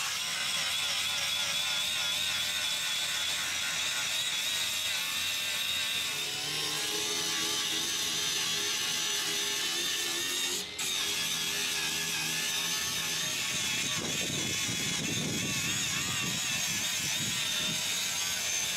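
A power tool working on bare metal: a steady whirring grind, broken off briefly near the middle.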